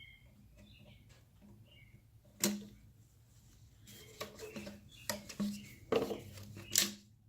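Sharp clicks and light knocks of plastic parts being handled while a clip is worked back into place under the hood, with a single loud snap about two and a half seconds in and a quick run of clicks toward the end.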